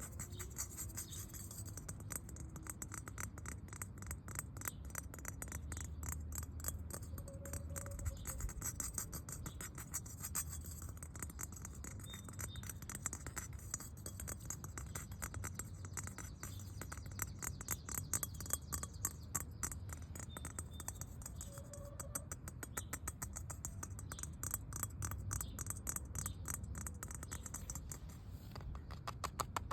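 Rapid ASMR tapping and scratching on a hard surface: a dense, continuous patter of light clicks, many per second, with no pause.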